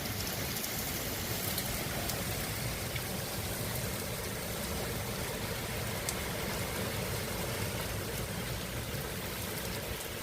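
Heavy thunderstorm rain falling steadily, with a few faint sharper ticks.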